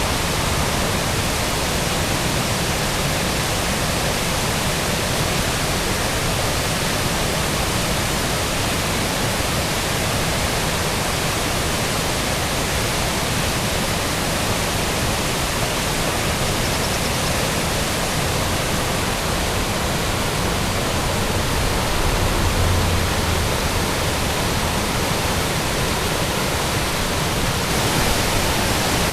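Floodwater of the Calapooia River rushing past in a steady, unbroken noise.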